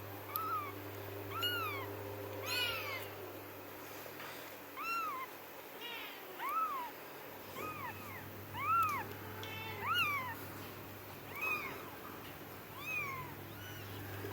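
Young kitten mewing over and over: about ten short, high mews, each rising and then falling in pitch, a second or so apart.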